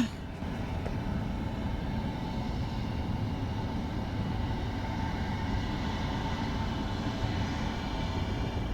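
Jet engines of a SkyWest regional jet at takeoff power, beginning its takeoff roll just after being cleared: a steady rumble with a faint high whine.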